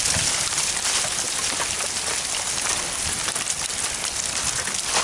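Rain pattering steadily on ice-coated woods: a dense, even hiss of many small drops ticking.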